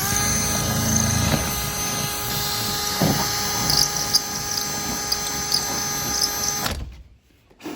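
Power drill running at a steady speed for nearly seven seconds with a whining motor, then stopping abruptly, used while fitting a light to a truck.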